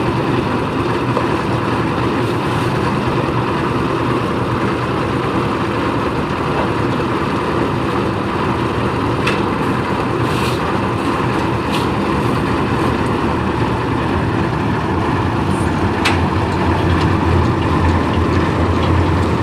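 Engine of a concrete mixer-lift machine running steadily, with a few sharp clicks about halfway through; near the end the low engine tone gets stronger and a little louder.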